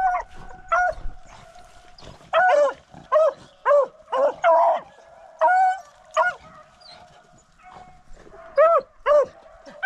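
Beagles giving mouth on a rabbit's track: about a dozen short, loud barks, each rising and falling in pitch, coming singly and in quick pairs, with a quieter stretch past the middle.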